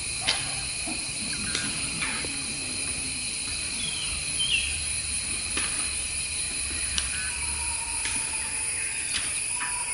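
Outdoor ambience: a steady, high-pitched insect drone, with short bird chirps scattered through it and one brief falling call about four seconds in.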